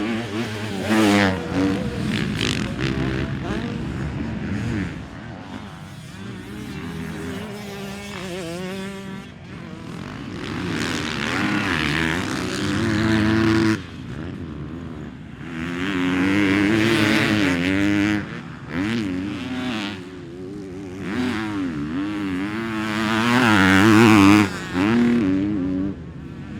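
Motocross bike engines revving hard and easing off again and again, the pitch rising and falling as the bikes accelerate and shift. The sound swells several times, loudest near the end.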